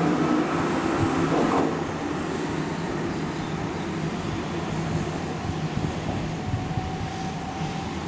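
Keihan electric train running at a station, a steady rumble and hum that is louder for about the first second and a half, then drops to a quieter, even level.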